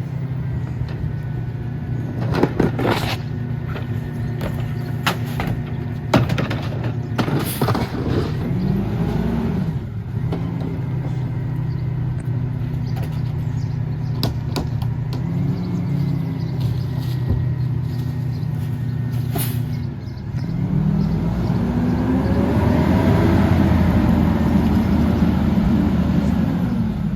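Mack LR garbage truck's diesel engine idling steadily, with several sharp metallic clanks in the first eight seconds and another about twenty seconds in. The engine revs up briefly twice, then runs at higher, louder revs for the last six seconds or so.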